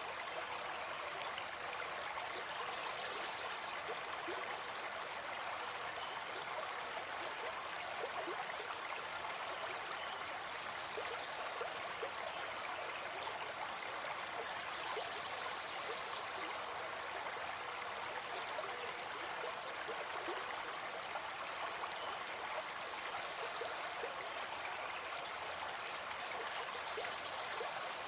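Gentle forest stream flowing steadily over stones, an even rushing and trickling of water.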